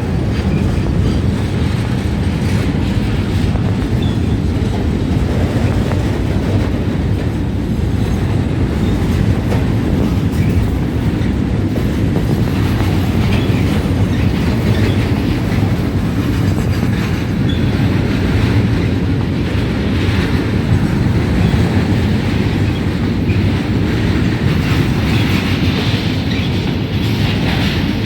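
Freight train of oil tank wagons, hauled by a WAG-12 electric locomotive, rolling past with a steady, loud rumble of wheels on the rails.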